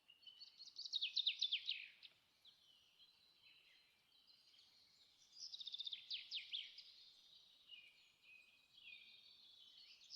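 Faint bird chirping: quick runs of high, falling notes in a burst about a second in and another about five seconds in, with softer twittering between.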